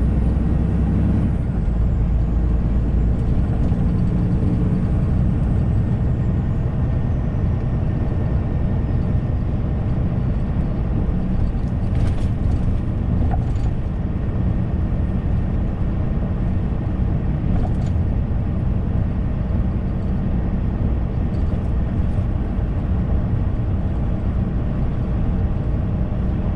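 Semi-truck heard from inside the cab while driving: a steady engine drone and road rumble, with a few faint clicks or rattles.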